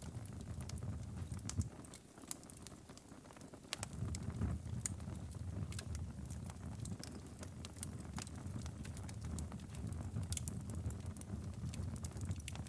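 Wood fire crackling in a fireplace, with scattered sharp pops over a steady low rumble; the rumble drops away for a couple of seconds about two seconds in, then returns.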